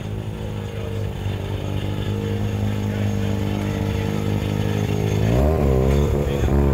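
Car engine running with a steady low drone, its pitch dipping and climbing twice near the end as it is revved.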